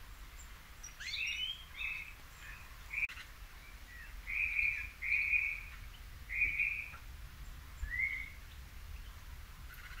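Bird calls: a rising note about a second in, then a run of short, rasping half-second notes that are loudest in the middle, and a quieter rising note near the end.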